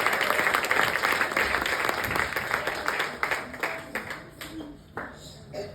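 Audience applause dying away, thinning to a few scattered last claps near the end.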